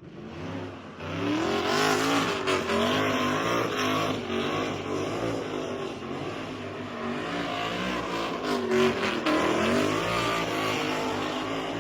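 A car engine revved hard, its pitch rising and falling over and over, with tyre noise, as a car slides at a street takeover.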